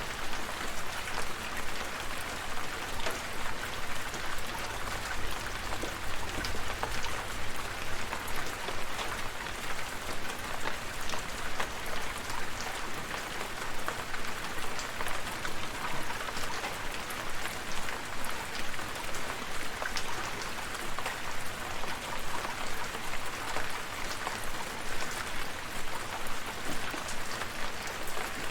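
Steady rain, with many close individual drops pattering on a surface over a soft continuous wash.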